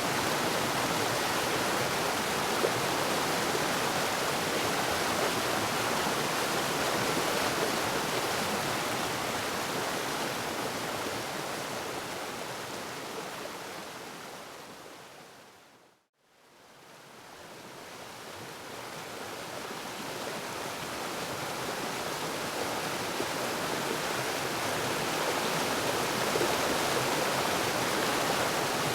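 Waterfall, a steady rush of falling water that fades out to silence about halfway through and then fades back in to full level.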